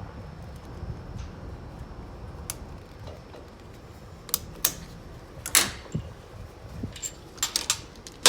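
Scattered sharp metallic clicks and clacks of automatic-transmission clutch-pack parts being handled and fitted on the bench, with a louder clack about five and a half seconds in and a quick run of clicks near the end.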